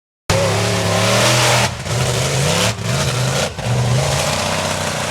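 Monster truck engine revving hard, its pitch climbing and falling as the throttle is worked, with three short drops in level. It cuts in abruptly just after the start.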